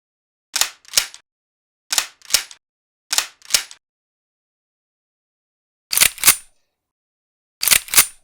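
Gunshot sound effect: five quick double shots, each pair a fraction of a second apart, with silence between the pairs.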